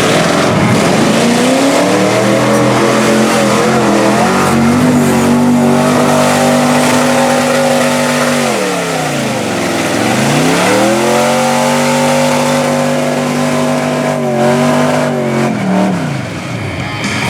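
Mud bog truck's engine revving hard and held at high revs, dropping right off about halfway through, then climbing back up and holding before falling away near the end.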